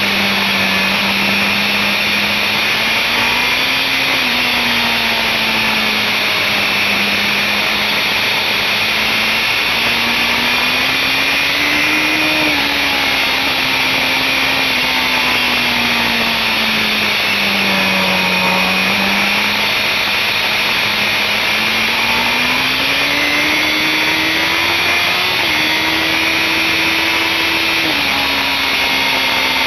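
BMW S1000RR inline-four engine pulling at speed under heavy wind rush on the onboard microphone. Its pitch rises and falls as the rider accelerates and eases off through the corners, with two sudden drops in pitch, about twelve seconds in and near the end.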